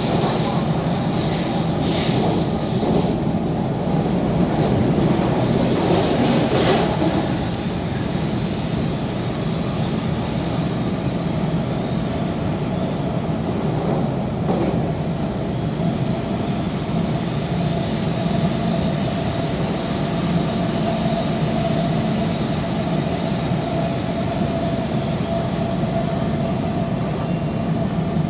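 MTR K-Train electric multiple unit running at speed, heard from inside the carriage: a steady rumble of wheels on rail with high-pitched whines that slowly rise and fall. It is louder and rattlier, with a couple of clicks, for the first several seconds, then settles into a smoother run.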